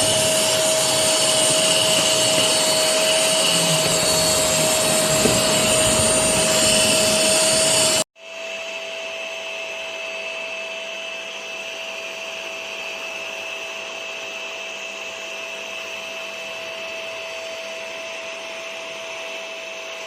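LENODI 15-litre wet/dry vacuum cleaner motor running steadily with a constant whine. About eight seconds in, the sound cuts off abruptly and resumes quieter, the same whine still present.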